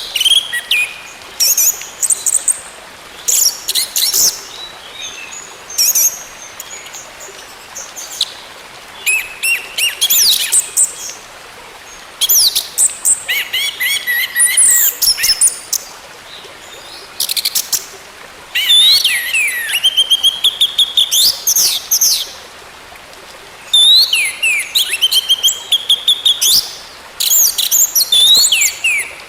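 Orange-headed thrush singing: varied phrases of rapid whistles and trills, falling and rising quickly, one phrase after another with short pauses between.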